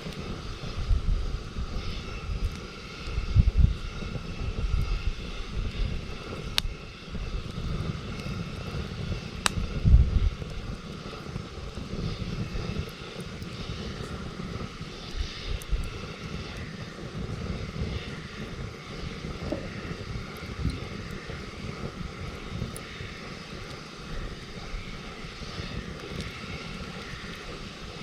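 Campfire burning, with an uneven low rumble that swells and fades and two sharp pops, about a third of the way in.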